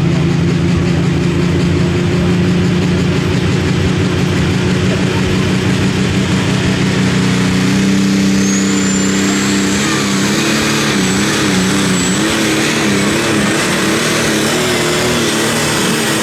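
Turbocharged diesel pulling tractor engine running hard. For the first half the engine note is steady. About halfway in, a high whistle rises and holds while the engine pitch wavers up and down, and the whistle drops away near the end.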